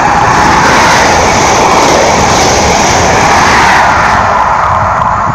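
Network Rail's yellow New Measurement Train, an HST set nicknamed the flying banana, passing through at speed: a loud, steady rushing of wheels on rail and the power cars that begins to die away near the end.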